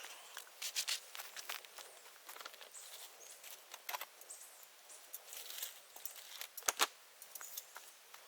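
Bonfire of dry dead bamboo crackling, with irregular snaps and pops and one sharper, louder pop about seven seconds in.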